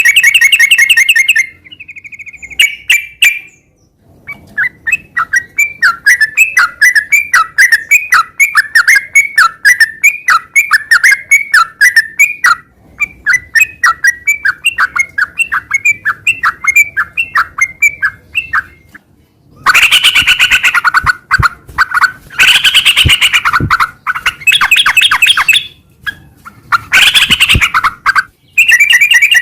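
Yellow-vented bulbul (trucukan) singing loudly: a long run of quick, short repeated notes, then dense, busy song phrases in blocks with short pauses between them.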